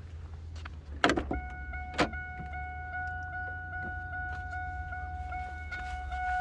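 Two sharp clicks about a second apart, then a car's warning chime starting up as an even run of rapid beeps, of the kind a key in the ignition or an open door sets off.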